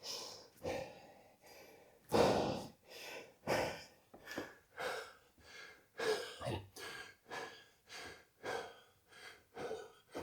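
A man's heavy breathing, short hard breaths about twice a second, as he recovers between reps of a hard conditioning workout.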